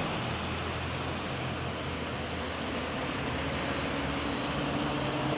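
Truck diesel engine running steadily over a haze of outdoor noise, its note climbing slightly in the second half.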